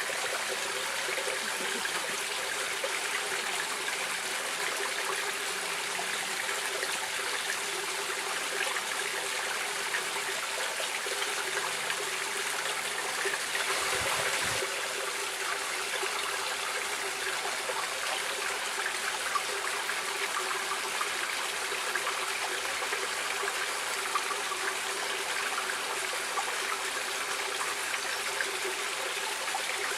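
Stream water flowing and splashing steadily, swelling briefly louder about halfway through.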